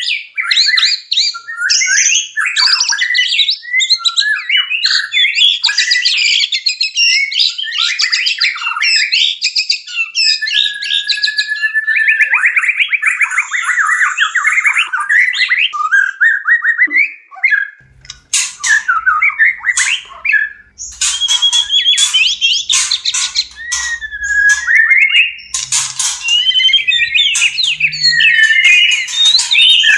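White-rumped shama courtship song in breeding condition: a continuous, rapid, varied run of whistles, trills and harsh chattering notes. Partway through, a faint low rumble joins beneath the song.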